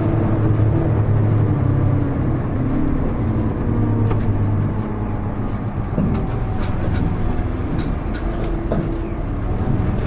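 Inside a KL-HR1JNEE diesel city bus underway: a steady low engine drone whose pitch drifts slowly as the bus drives on, with scattered small rattles and ticks from the cabin.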